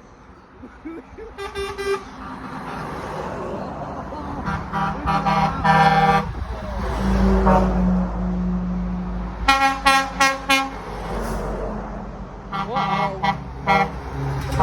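Lorries passing in a convoy, sounding their horns in groups of short, rapid toots four times over, with a low engine rumble that swells as a truck goes by about halfway through.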